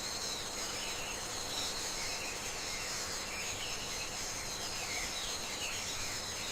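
Outdoor nature ambience: a steady, high insect chorus with scattered short bird chirps over a low background hiss.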